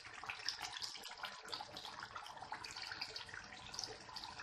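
Faint, steady watery crackling and hiss.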